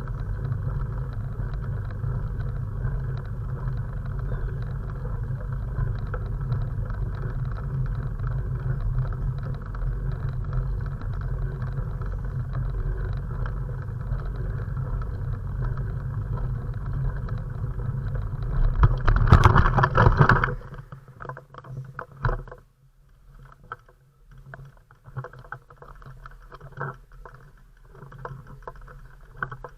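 Steady wind and road rumble on a camera riding along on a bike, swelling to a loud rush about 19 seconds in and then cutting off sharply, leaving quieter scattered knocks and rustles.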